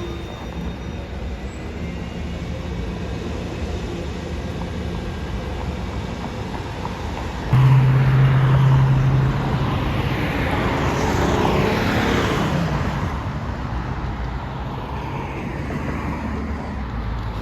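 Road traffic rumbling steadily; about seven seconds in, a loud low sound starts abruptly and a large vehicle passes, its pitch falling as it goes by.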